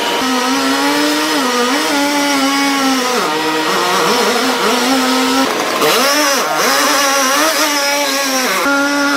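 Two-stroke chainsaw running at high revs, its pitch dropping several times as it bogs down under load in the cut and then picks back up.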